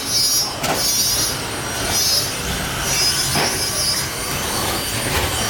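Several electric RC stadium trucks racing, their motors giving a high-pitched whine that rises and falls, with a few sharp knocks from the trucks on the track.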